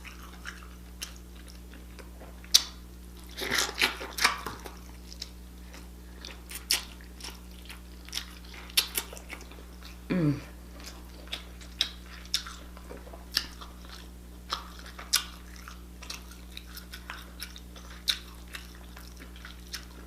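Close-miked eating of lobster: biting and chewing, with many short, sharp wet clicks and a louder cluster of them a few seconds in, over a steady low hum.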